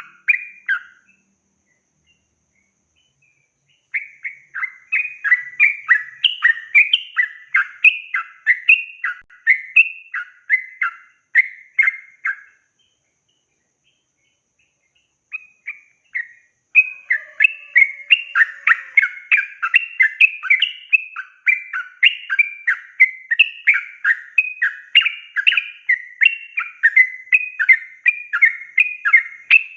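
Yellow-vented bulbul (trucukan) singing a long, fast run of short chattering notes, several a second. It pauses for a few seconds near the start and again about halfway through, then sings on without a break.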